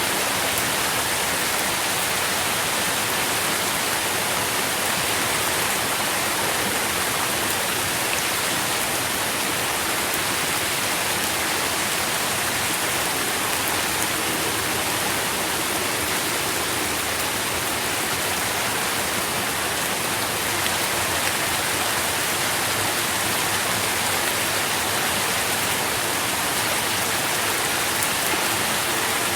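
Steady rain pattering on leaves, a dense even hiss with faint scattered drips.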